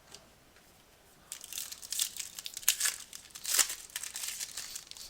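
A trading card pack's foil wrapper being torn open and crinkled, starting about a second in, with sharp crackles throughout.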